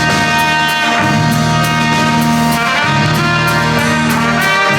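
Brass band music with trumpet-like horns and a bass line, playing a tune in held chords that change about every second or two.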